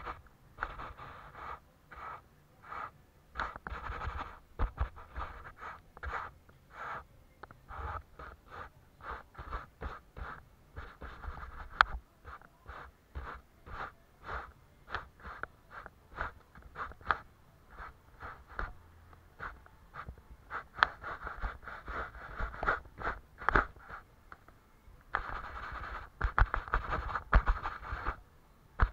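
Watercolour paintbrush strokes on paper: a series of short scratchy swishes, one or two a second, turning into continuous scrubbing near the end.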